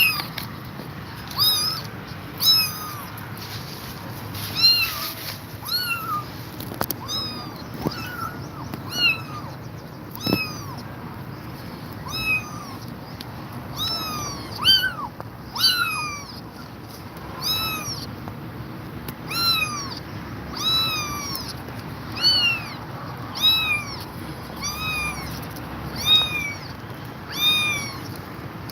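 Kittens mewing over and over: short, high-pitched calls, each rising then falling, about one a second.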